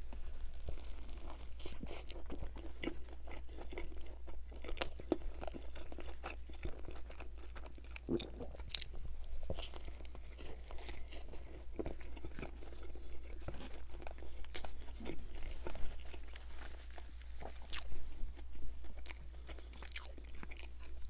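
Close-miked biting and chewing of a McChicken sandwich, with its breaded chicken patty, soft bun and shredded lettuce. Crunching and wet mouth clicks come irregularly and repeatedly.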